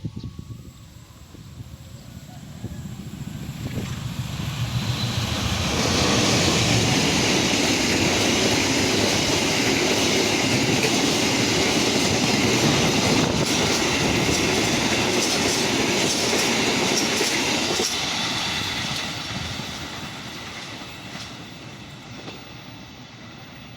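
A train passing on the line, its wheels running on the rails: it builds up over the first few seconds, is loud and steady for about twelve seconds, then fades away as it leaves.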